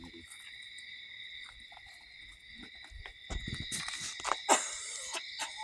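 Crickets chirping steadily in a high, even drone, with a few knocks and rustles in the second half.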